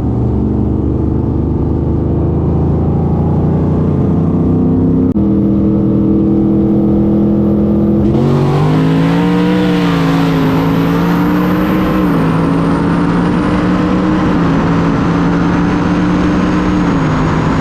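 Car engines running hard during a race. The engine pitch holds steady and then jumps in steps several times, like gear changes. About eight seconds in, a loud rush of wind and road noise joins and stays.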